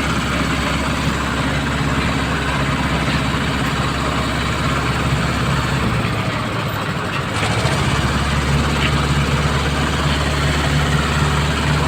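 Heavy haulage truck's engine running steadily at low speed, a deep hum that drops away about six seconds in and comes back stronger a second or so later.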